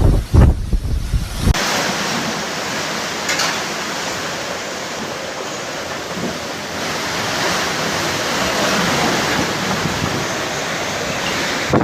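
Hurricane wind buffeting the microphone in heavy, rumbling gusts. About a second and a half in, this gives way abruptly to a steady rushing hiss of wind and storm-driven waves.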